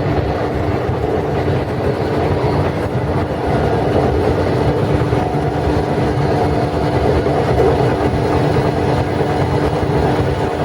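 Running noise inside a JNR 12-series passenger coach under way: a steady rumble of wheels on rail with a constant hum.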